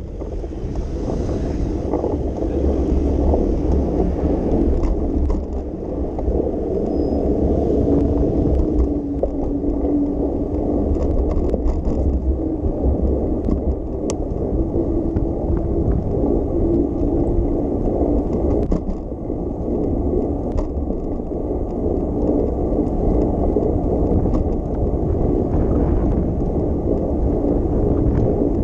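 Bicycle riding over city streets: a steady low rumble of tyres on the road and wind buffeting the microphone, with a few faint clicks and rattles.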